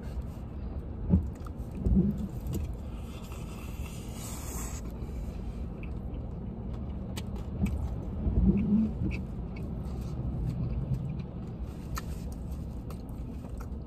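Someone chewing and handling fried chicken inside a car, with a few soft knocks, over a steady low rumble from the car. A brief hiss comes in about three seconds in and stops near the five-second mark.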